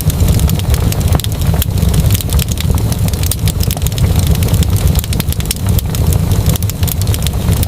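Wood fire crackling: many sharp, irregular pops and snaps over a steady low rumble.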